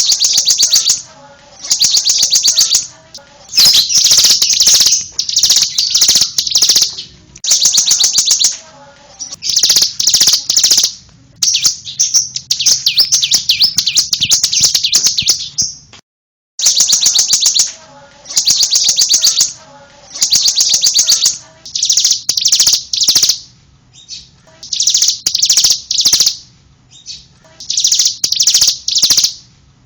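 Bar-winged prinia (ciblek) singing: bursts of fast, high trills about a second long, repeated with short pauses. About halfway through, the sound cuts out for half a second.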